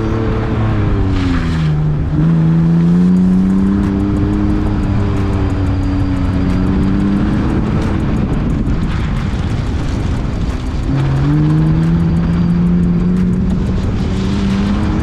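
BMW E46 330Ci's 3.0-litre straight-six driven hard, its revs dropping over the first two seconds as the car slows, climbing under acceleration, dropping again around ten seconds in and climbing once more. A steady rush of wind and road noise runs under the engine, heard from outside the car's flank.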